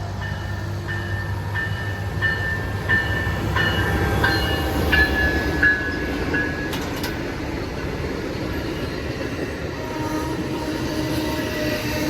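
A train rolling past with a steady rumble, while a grade-crossing bell rings about twice a second and stops roughly two-thirds of the way through.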